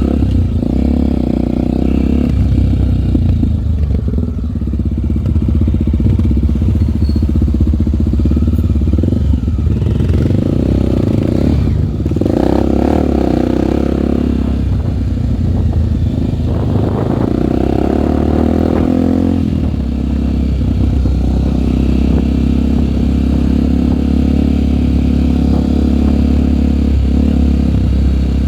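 Single-cylinder four-stroke trail motorcycle engine running while riding, its pitch rising and falling several times as the throttle is opened and eased.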